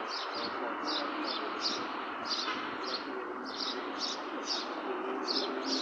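Small bird chirping over and over, short high chirps about two or three a second, over a steady hiss of background noise.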